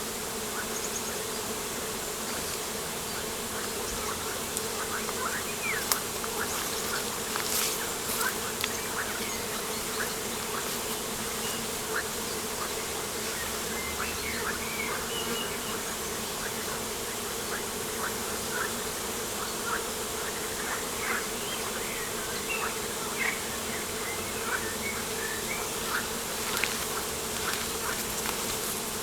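Steady buzzing of flying insects, with short bird chirps scattered throughout and a few faint clicks.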